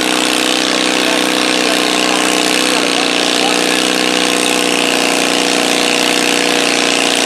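An engine running steadily at constant speed, with no revving.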